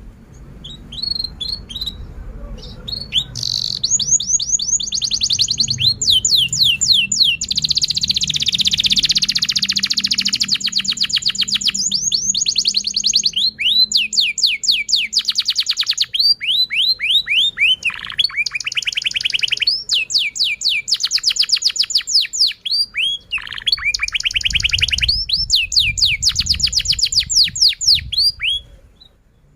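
Domestic canary singing a long, continuous song of rapid repeated chirps and fast trills, in phrases with brief breaks between them. A low rumble sits underneath in places.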